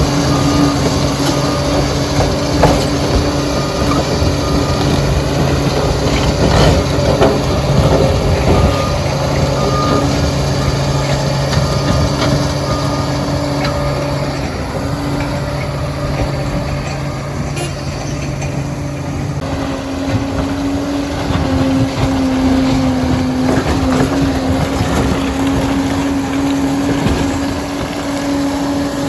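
Liebherr 746 crawler dozer's diesel engine running steadily at work, with occasional knocks. About two-thirds of the way through, the engine note shifts lower.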